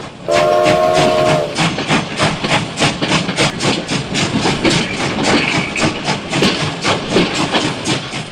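A steam-train whistle blows once for about a second, followed by a steady rhythmic chugging of about five beats a second.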